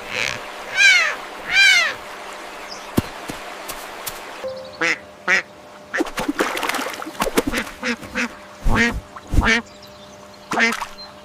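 Ducks quacking: two loud drawn-out quacks about a second in, then a run of shorter quacks through the second half.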